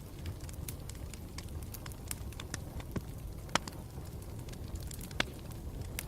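Campfire crackling: a steady low rumble of burning with scattered small pops and ticks, and two louder snaps, about three and a half and five seconds in.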